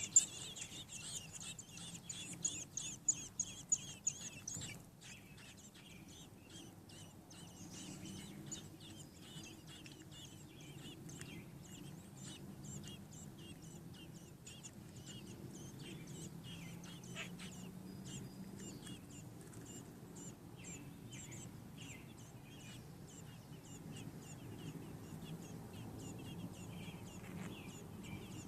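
American robin nestlings peeping in the nest: a fast, loud run of high chirps for the first four seconds or so, then fainter, scattered peeps.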